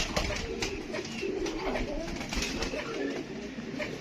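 Pigeons cooing, several low coos overlapping one another, with scattered light clicks.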